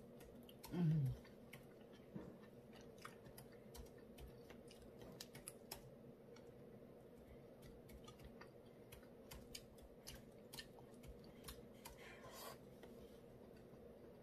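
A person chewing food quietly, with many small, scattered mouth clicks and ticks. There is a short hummed vocal sound about a second in and a brief hiss near the end.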